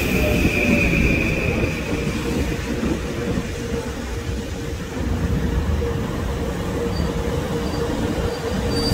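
Metro-North M8 electric multiple-unit commuter train rolling slowly past along the platform: a steady rumble of wheels and running gear under a faint steady electric whine. A high squeal fades out within the first second.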